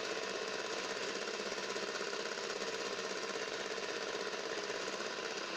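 Electric mixer running steadily, beating cake batter of eggs, sugar, oil, lemon juice, water and flour in a bowl.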